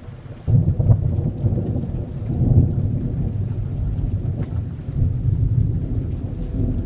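Thunder rumbling over rain, a deep roll that starts suddenly about half a second in and swells and fades in waves.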